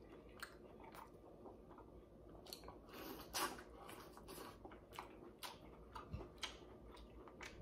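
Faint eating sounds: biting into and chewing corn on the cob, with scattered small wet clicks and smacks, a little louder about three seconds in.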